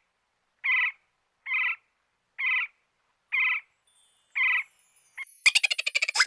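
An animal call: a short note repeated about once every second, six or seven times. About five and a half seconds in, a louder, dense, rattling sound takes over.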